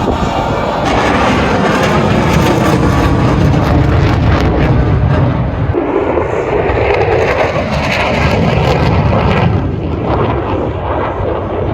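Jet fighter engines of the U.S. Air Force Thunderbirds' F-16s running loudly as they pass overhead. A higher whine joins the rumble around the middle, and the noise eases a little near the end.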